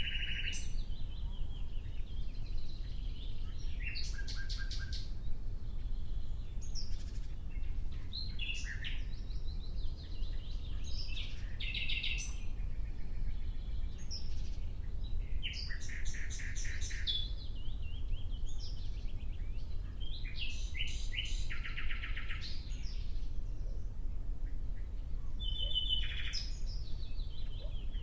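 Nightingale singing: about seven phrases, each a burst of rapid repeated notes and trills, separated by short pauses of a couple of seconds. A steady low rumble runs underneath.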